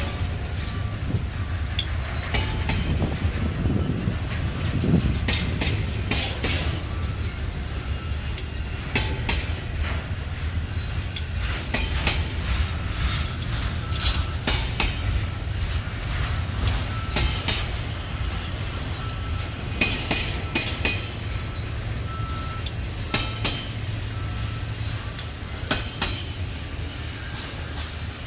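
Train rolling past: a steady low rumble with the wheels clacking over the rail joints, and a faint thin wheel squeal now and then.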